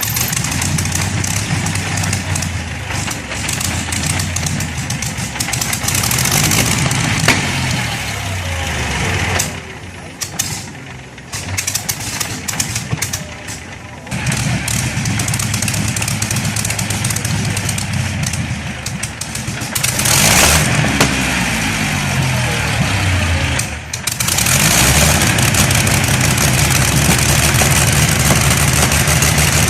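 Large vintage engine running, its speed dropping and then picking up again, heard in several short takes that change abruptly.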